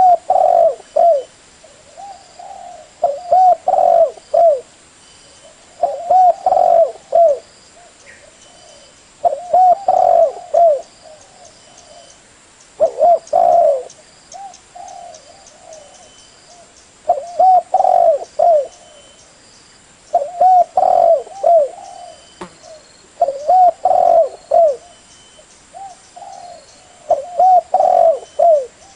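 Spotted dove cooing: a phrase of several short coos repeated about every three to four seconds, with softer coos in between, the kind of call recording used to lure doves in.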